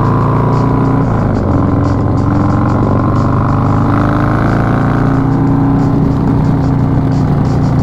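Harley-Davidson Milwaukee-Eight 131 V-twin running under way through an S&S Super Street 2-into-1 exhaust. The engine note holds fairly steady, with small dips and rises in pitch as the throttle changes.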